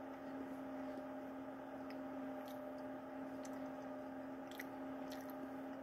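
A steady low electrical hum under a few faint, soft mouth clicks from chewing a bite of a soft chocolate chip muffin with the mouth closed.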